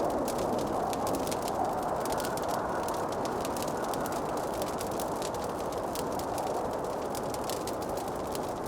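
Fireplace wood fire crackling, with many quick irregular snaps and pops over a steady rushing noise.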